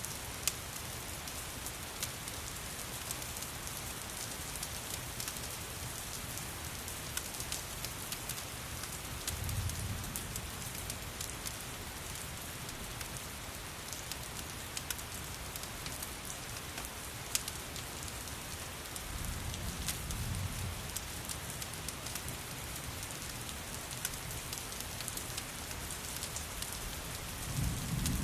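Steady rain, with scattered sharp crackles of a wood fire. Three short low rumbles come through, about ten seconds apart.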